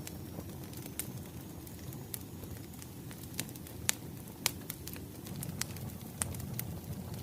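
Wood fire crackling: a steady low rumble of burning logs with scattered sharp pops. The two loudest pops come about four and four and a half seconds in.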